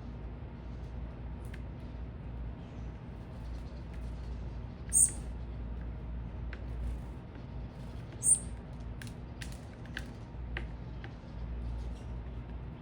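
Small birds at a feeder: two sharp, very high chirps, about five and eight seconds in, with faint short clicks between, over a steady low city hum.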